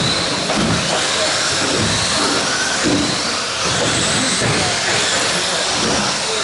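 Radio-controlled stadium trucks racing: a steady wash of noise with brief high motor whines that rise and fall as the trucks speed up and slow down.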